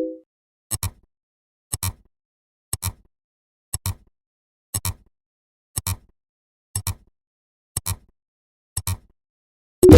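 A ticking sound effect: a sharp double tick, like a clock's tick-tock, repeating evenly about once a second, ten times.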